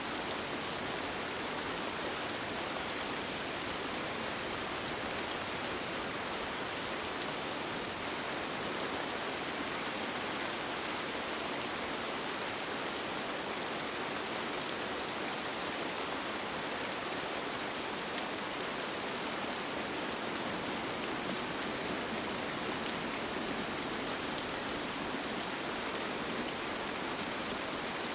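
Steady rain falling on a tent: an even hiss with faint scattered drop ticks.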